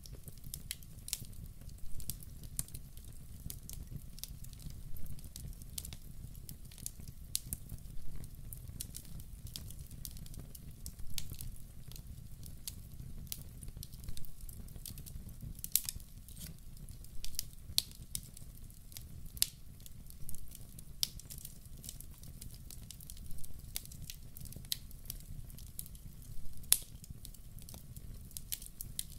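Wood fire burning in a fireplace: sharp, irregular crackles and pops from the burning logs over a steady low rumble.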